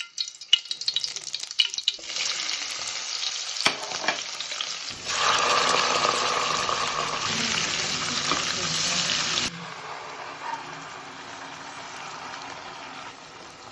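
Food sizzling as it fries in a pan, with sharp clicks in the first couple of seconds. The sizzle changes level abruptly a few times, loudest in the middle and dropping suddenly about two-thirds of the way through.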